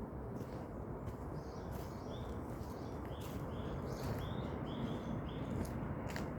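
A bird in the forest giving a run of short, similar high chirps, about two a second, from about two seconds in. Under it are a steady low rumble and scattered sharp clicks.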